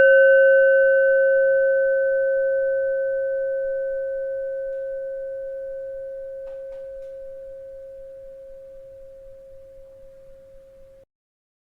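A bell rings out after a single strike: one steady low tone with fainter higher overtones, fading slowly and evenly. It cuts off suddenly into silence about eleven seconds in.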